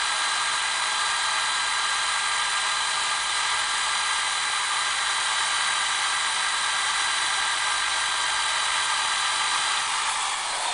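Electric drill running steadily at speed, a continuous high whine with several steady tones.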